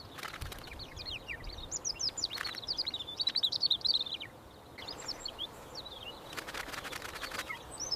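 Birds chirping: quick, high twittering calls, busiest from about a second and a half in to about four seconds, with a few brief rustling noises.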